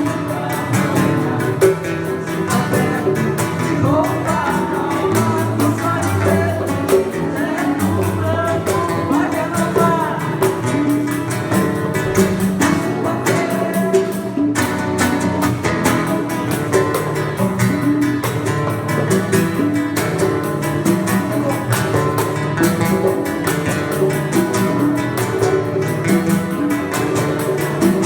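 Live acoustic Brazilian music: a violão (acoustic guitar) played with hand percussion and singing.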